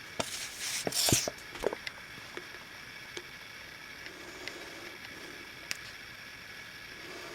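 Brief scraping and clicking of hand work at a hobby bench, most of it in the first second or so, then faint steady room tone broken by a few small clicks.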